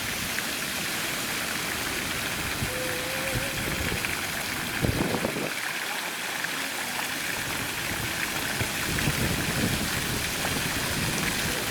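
Running water trickling and splashing steadily in a goldfish pond.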